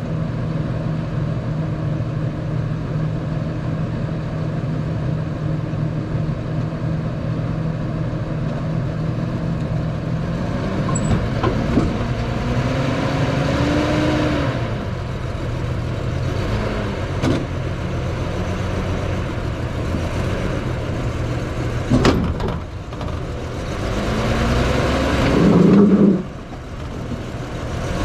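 Motor vehicle engine running steadily, then revving up twice with a rising pitch, with a sharp knock between the two revs.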